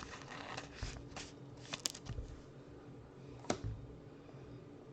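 Football trading cards being handled and flipped through: faint rustling and sliding of card stock, with two sharp clicks, about two seconds and three and a half seconds in.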